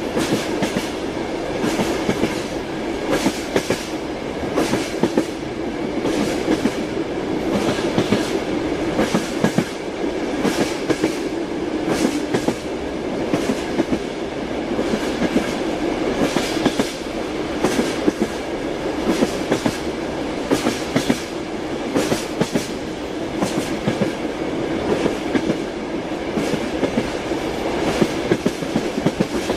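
Train wheels clattering over rail joints, with repeated sharp clacks, roughly one or two a second, over a steady rumble of the train running.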